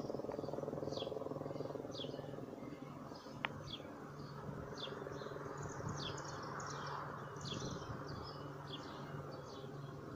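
Small birds chirping repeatedly, short high downward-sweeping chirps, over a steady low hum and faint rumble, with one brief tick about three and a half seconds in.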